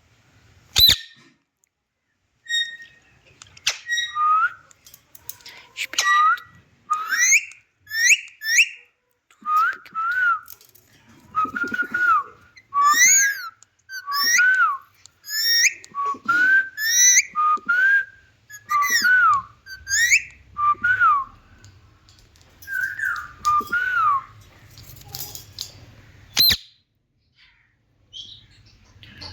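Indian ringneck parrot whistling a long series of short notes that rise and fall in pitch, with a sharp click about a second in and another near the end.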